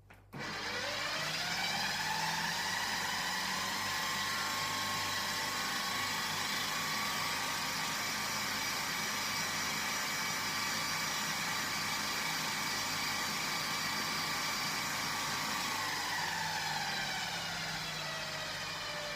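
Food processor blending soaked almonds and water into almond milk. The motor starts and spins up to speed in the first couple of seconds, runs with a steady whine, and falls in pitch near the end.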